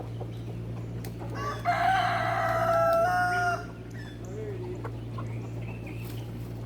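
A rooster crows once, a call of about two seconds that begins just under two seconds in, rising in pitch for its last part, over a steady low hum.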